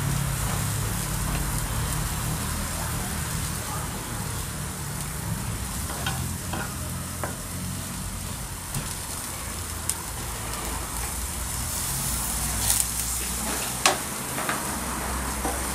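Food sizzling and frying in a pan, a steady hiss over a low hum, with a few sharp clicks scattered through it.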